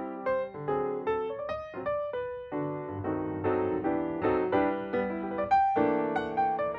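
Background piano music: a steady flow of struck notes and chords.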